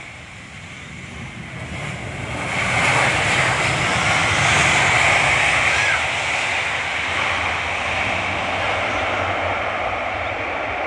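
An airplane's engines passing close on take-off or landing: the engine noise swells over the first three seconds, is loudest for a few seconds, then holds steady a little lower.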